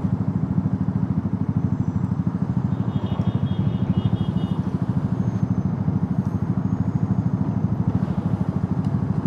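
Motorcycle engine running steadily under way, its firing pulses even throughout. A faint high-pitched tone sounds briefly about three seconds in.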